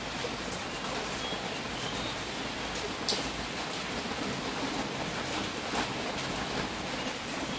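Steady rain falling, an even hiss with scattered sharper ticks of individual drops striking nearby, one standing out about three seconds in.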